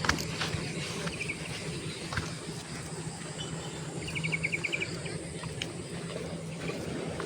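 Outdoor ambience: a steady low background hum with scattered faint clicks. A small animal chirps briefly about a second in, then gives a short rapid trill of about eight chirps about four seconds in.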